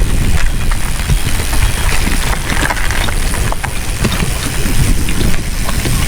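Wind buffeting the microphone while a loaded touring bicycle rolls over loose gravel, with a steady clatter of small knocks and crunches from the tyres and bike.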